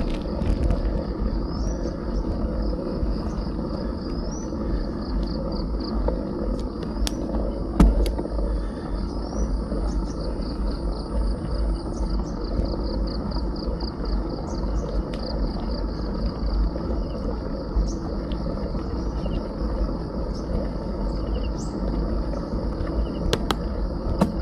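Steady wind and riding noise on an action camera's microphone during a bike ride, over insects trilling in a high, pulsing chorus. A few sharp clicks and one louder knock come about a third of the way in.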